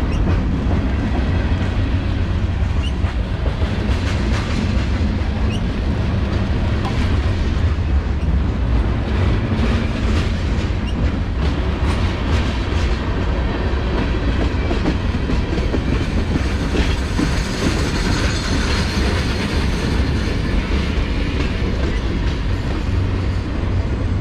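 Union Pacific freight train rolling past: a steady, heavy rumble with the clatter of wheels over the rails.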